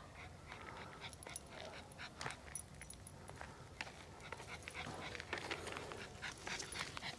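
A dog panting lightly, in quick, faint, irregular breaths.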